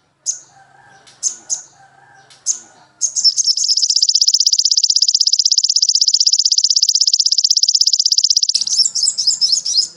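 Songbird singing: a few short high chirps, then a long, very fast high trill lasting about five seconds, breaking into quick varied notes near the end.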